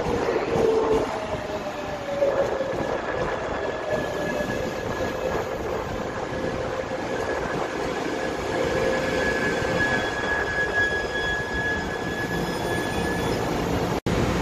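Taiwan Railways electric multiple unit train rolling slowly along the platform. Its motor whine falls in pitch as it slows, and a thin, steady high whine comes in over the rumble of the wheels partway through. The sound breaks off suddenly near the end.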